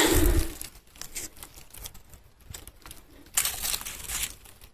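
Dry leaf litter rustling and crackling in short bouts, with scattered light clicks and a longer rustle about three and a half seconds in.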